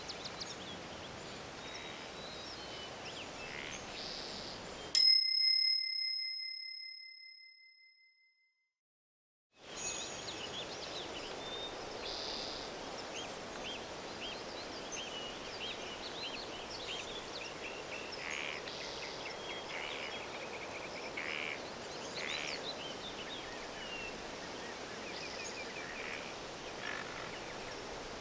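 Forest ambience with many birds chirping. About five seconds in it cuts off for a single bell-like timer ding that rings out and fades into a few seconds of silence; the forest birdsong then resumes with a short click. The ding and the gap mark the end of a one-minute interval and a five-second break.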